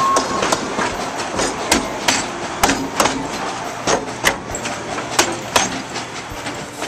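Train rolling along the Tweetsie Railroad's narrow-gauge track, with a steady rumble and a series of sharp, irregular clanks.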